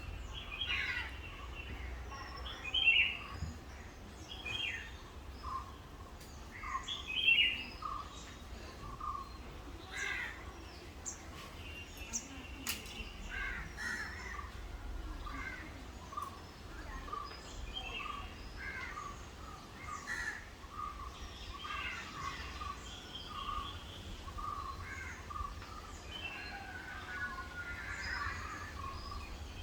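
Several birds calling, short chirps and calls overlapping throughout, with a run of repeated short notes through the middle and two louder calls about three and seven seconds in. A steady low rumble lies underneath.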